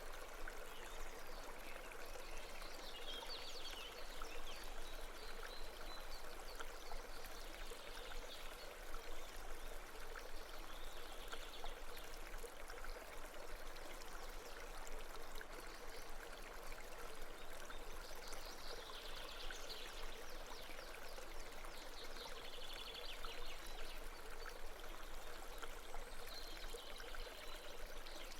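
Steady babbling of a stream or brook, with a few brief, high, rapid trills now and then.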